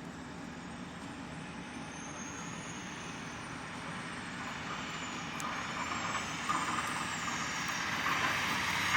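Motor vehicle running, its steady noise growing louder toward the end, with a faint high whine that rises and falls.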